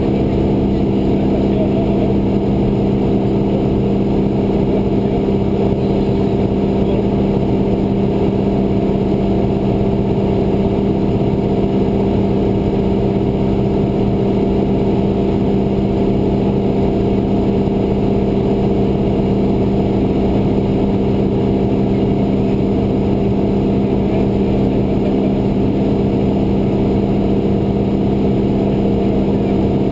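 Cessna 172's piston engine and propeller droning steadily in flight, heard from inside the cabin, with no change in pitch or power.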